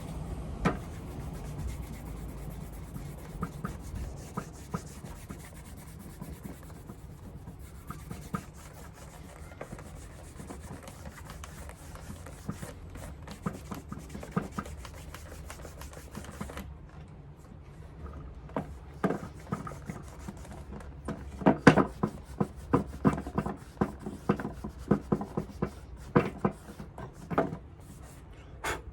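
Paraboot Michael leather shoe being polished by hand, with quick rubbing strokes against the leather. The strokes are sparse at first, then come in faster, louder runs near the end.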